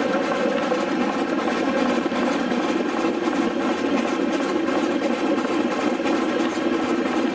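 An engine running steadily with an even, unbroken hum.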